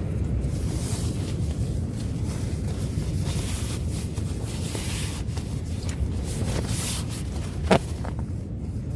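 Wind buffeting the microphone in steady rain: a continuous low rumble with a patchy hiss over it. One sharp knock comes near the end.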